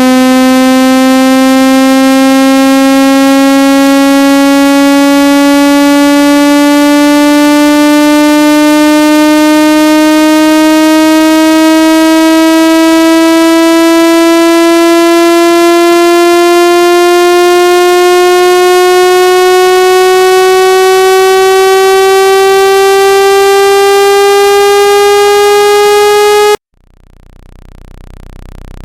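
A loud, buzzy synthesized tone with many overtones sliding slowly upward in pitch, then cutting off suddenly near the end, after which a new tone starts to fade in. It is a speaker water-ejection tone, played to vibrate trapped water out of a phone or earphone speaker.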